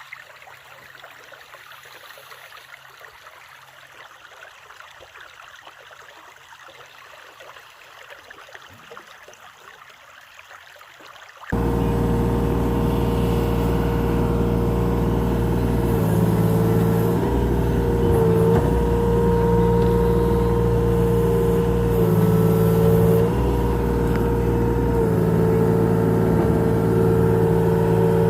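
Mini excavator's diesel engine running steadily, coming in suddenly about eleven seconds in after a quiet stretch; its pitch dips briefly several times as the load changes.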